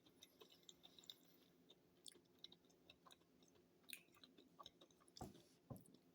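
Faint chewing of a bite of speculaas cookie: soft scattered clicks and crunches in the mouth, with two louder low thumps about five seconds in.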